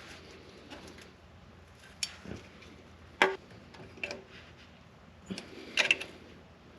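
Sparse, irregular light clicks and knocks of hand tools and metal parts being handled while working under a car, the loudest about three seconds in and a few more close together near the end.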